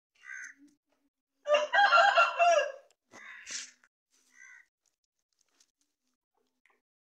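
Aseel rooster crowing once, a call of about a second and a half starting about a second and a half in, with a few short faint calls before and after it.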